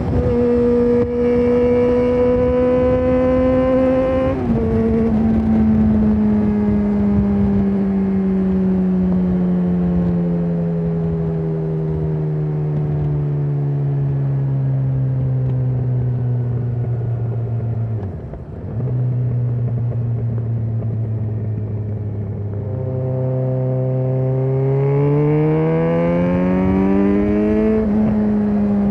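Yamaha XJ6N's inline-four through a Shark Street GP full exhaust system, heard from the rider's seat: the engine pulls and shifts up about four seconds in, then its note sinks slowly for a long stretch as the bike slows, with a brief break and a step up in pitch about two thirds of the way through. It then accelerates with a steadily rising note and shifts up again near the end, with wind noise throughout.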